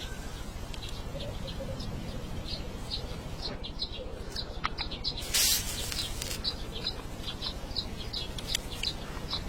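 Small birds chirping in short, repeated calls over a steady low background noise, with a brief loud hiss or rustle about five and a half seconds in.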